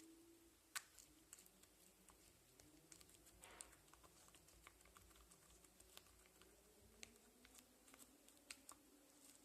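Faint, irregular sticky clicks and small pops of homemade glue-and-borax slime being kneaded by hand.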